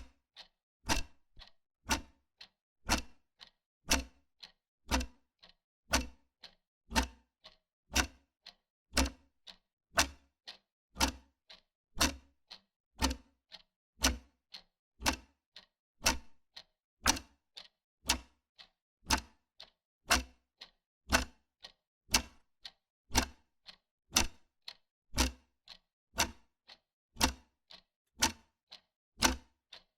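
Wall clock ticking steadily, about two ticks a second, alternating a stronger tick with a softer tock.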